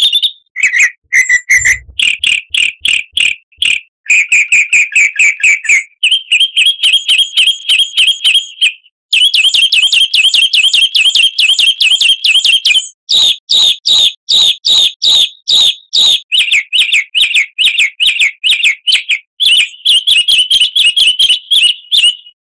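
A songbird singing fast, chattering runs of sharp repeated high notes, several a second, in phrases of a few seconds with short breaks between them. It stops abruptly just before the end.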